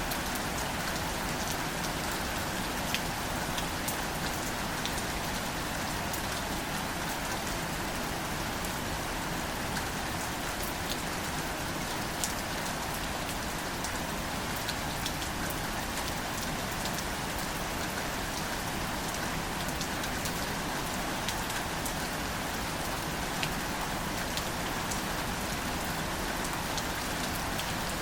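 Gentle, steady rain falling on wildflowers and leaves, with scattered individual drops ticking over the even patter.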